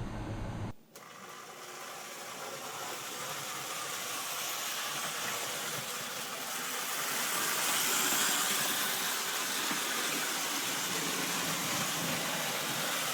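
Model train locomotive running on its track: the steady whir of a small electric motor and the rush of wheels on rail, with no clear pitch or beat. It starts after a cut about a second in and grows gradually louder.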